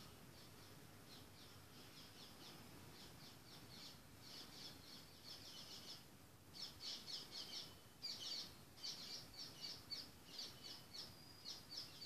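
Faint bird chirping: rapid series of short, high chirps over a low background hiss, growing louder about halfway through.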